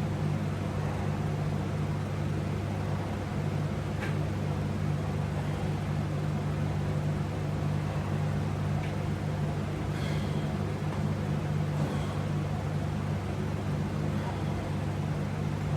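A steady low droning hum, with a few faint clicks about four, ten and twelve seconds in.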